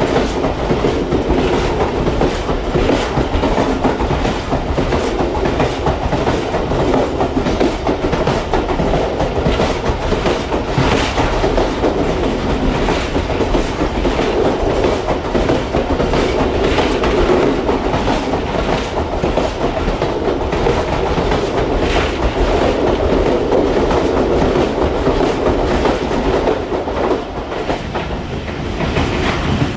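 Pakistan Railways express train running steadily, its wheels clacking over the rail joints in a continuous rumble.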